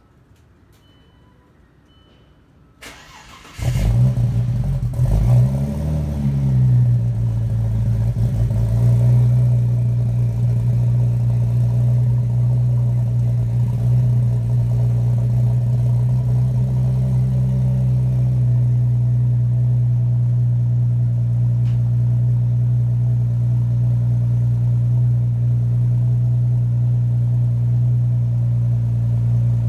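Audi B5 S4 Avant's 2.7-litre twin-turbo V6 cold-starting through a custom exhaust (3-inch downpipes, 200-cell cats, 3.5-inch single pipe with two mufflers): a short crank about three seconds in, it catches and flares, then settles into a steady fast cold idle.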